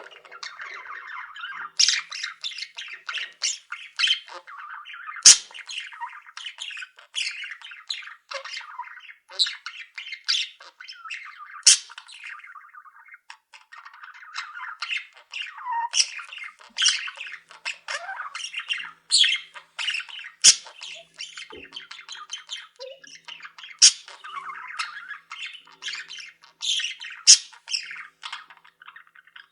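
A colony of pet budgies chattering and warbling without a break, with frequent short, sharp squawks over the top.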